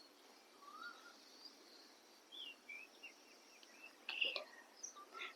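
Faint birds chirping in the background, a few short rising and falling chirps over a low steady hiss, with one brief louder sound about four seconds in.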